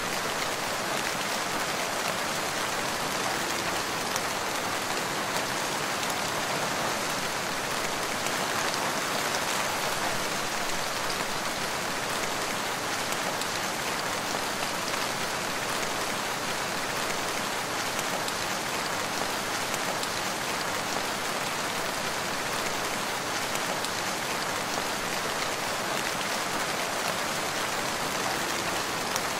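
Steady rain falling on a forest, an even dense patter of drops with no changes.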